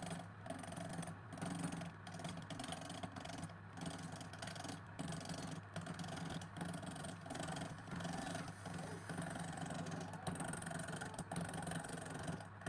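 A motor running steadily with a low hum, broken by many short gaps.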